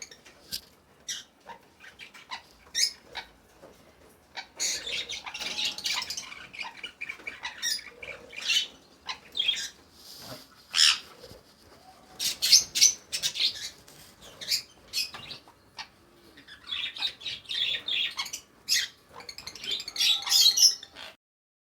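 Caged pet parrots (lovebirds and sun conures) calling: a string of short, sharp high squawks and chirps, with two longer spells of busy chattering, one about five seconds in and one near the end. The calling cuts off suddenly just before the end.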